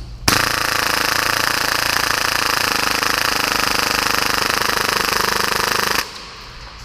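Full-auto Tokyo Marui Hi-Capa airsoft pistol, fed from an air tank, firing one long continuous burst at a very fast rate of about 30 rounds a second. It cuts off suddenly about six seconds in.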